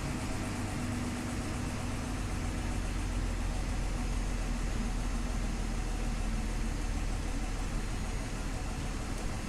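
Scania OmniLink city bus engine running steadily at a low, even speed, with a constant hum and road or cabin noise and no sudden events.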